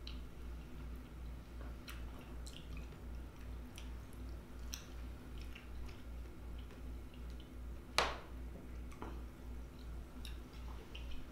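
Close-miked chewing of soft melon chunks: wet, squishy mouth sounds with scattered small clicks and one louder sharp click about eight seconds in, over a low pulsing hum.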